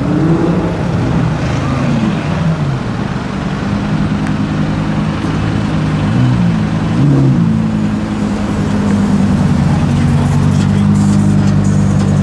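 Lamborghini Huracán Performante Spyder's V10 engine running in slow traffic, rising and falling in revs in the first few seconds and giving two quick blips about six to seven seconds in, then settling to a steady idle.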